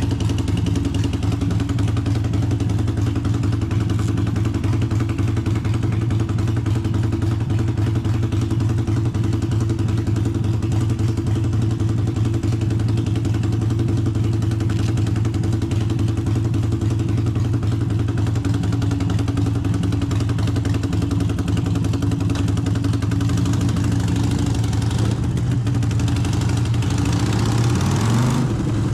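Harley-Davidson Forty-Eight's 1200 cc air-cooled V-twin idling steadily, then revving up near the end.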